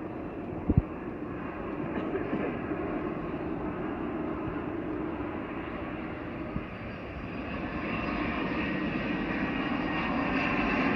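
Jet airliner's engines rumbling as it approaches to land, growing steadily louder. Two brief knocks sound just under a second in.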